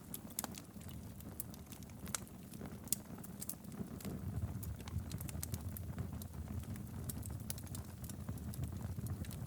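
Wood fire burning steadily in a fireplace: a low, even rumble of flame with frequent irregular crackles and pops from the burning logs.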